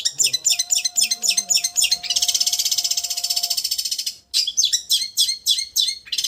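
Long-tailed shrike singing: a run of sharp repeated chirps about five a second, then a fast rattling trill (the 'getar') for about a second and a half. After a short break about four seconds in come more chirps, and the trill starts again near the end.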